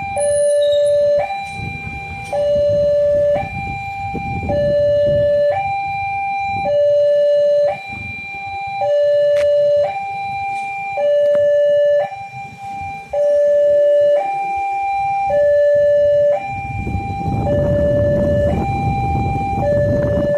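Railway level-crossing warning alarm sounding, two tones taking turns, each held about a second, in a steady high-low cycle. A low rumble builds in under it near the end.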